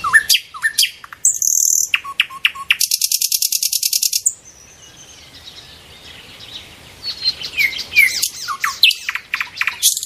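Small songbird calling: quick high chirps and short down-slurred notes, with a fast, high, buzzy trill about three seconds in lasting about a second. A quieter stretch of faint twittering follows, then louder chirps again near the end.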